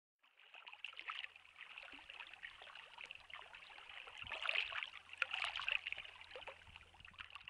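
Running water trickling and splashing, a busy, irregular babble that grows louder about halfway through and cuts off suddenly at the end.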